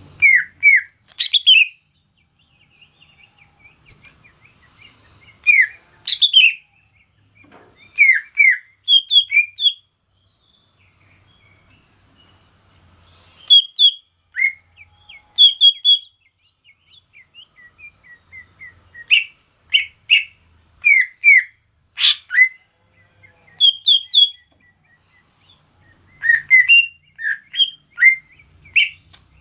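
Cucak ijo (greater green leafbird), an untrained 'bahan' bird, calling in short bursts of two to five sharp, downslurred whistled notes every couple of seconds. A steady high hiss runs underneath.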